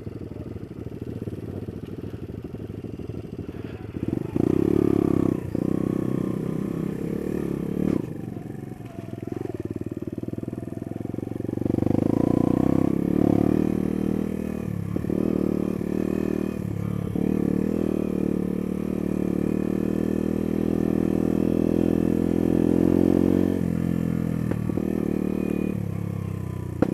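Small single-cylinder trail motorcycle engine running while being ridden off-road, its note rising and falling with the throttle. It is quieter for the first few seconds, then louder from about four seconds in, easing off briefly around the middle.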